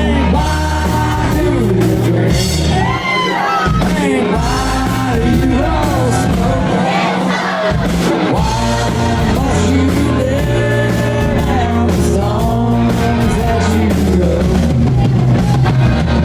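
Rock song with a singer over a steady heavy bass line and sharp repeated percussive strokes, loud and continuous.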